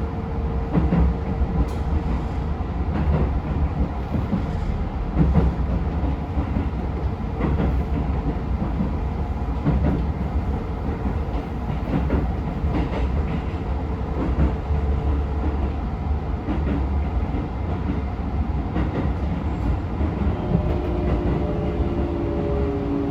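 Keisei 3700 series electric train with Toyo GTO-VVVF traction, heard from inside the car running toward its terminus: a steady low rumble with clickety-clack knocks from the wheels over rail joints and a faint steady motor tone. Near the end, higher tones come in, one falling in pitch as the train slows to stop.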